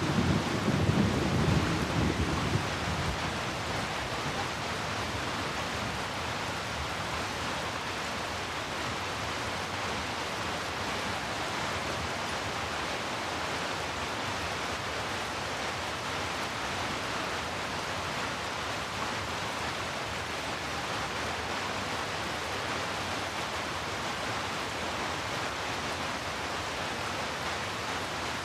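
Steady heavy rainfall, an even hiss of rain. In the first two or so seconds a low rumble of thunder dies away.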